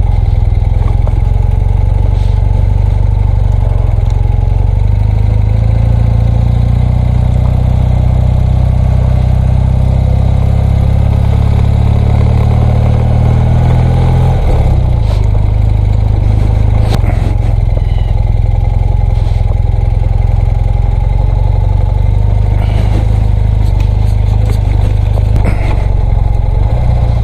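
BMW R100RS's air-cooled boxer twin running steadily at low speed, its note dropping and changing pitch about halfway through. A few short knocks and rattles come in the second half, as the bike rides over a rutted dirt track.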